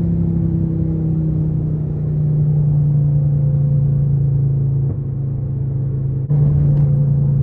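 Straight-piped Infiniti M56 5.6-litre V8 exhaust rumbling at low revs, its pitch drifting slowly. It briefly dips near five seconds in, then gets suddenly louder a little after six seconds.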